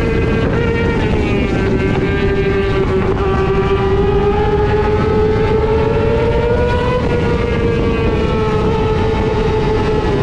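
Racing motorcycle engine running hard at high revs, its pitch sagging, then climbing steadily for several seconds and dropping back a little near the end, over a steady rush of wind and road noise.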